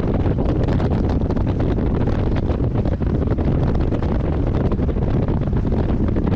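Heavy wind buffeting the microphone of a moving C3 Corvette, a loud, steady rumbling rush, with the car's running and road noise underneath.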